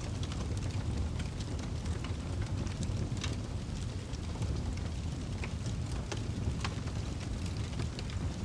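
Wood fire crackling in a fireplace: scattered sharp pops and snaps, a few louder ones, over a steady low rumble.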